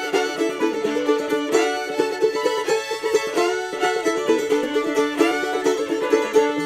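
Instrumental string music: a bowed fiddle-like melody over quick plucked strings.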